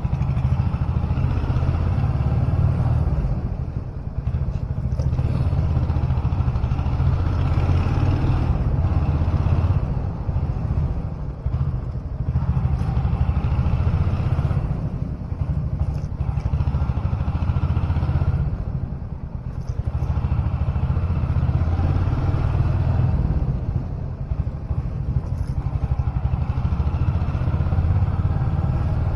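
Royal Enfield Hunter 350's single-cylinder engine and exhaust running at low speed, the thump easing off and picking up again a few times as the throttle is rolled off and back on, inside a concrete underground car park.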